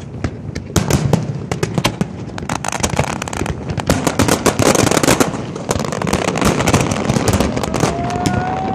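Fireworks going off: many sharp bangs and crackles in quick succession, densest about halfway through, with a short rising tone near the end.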